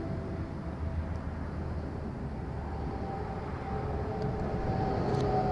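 Steady low rumble of road traffic, a little louder near the end as a vehicle goes by.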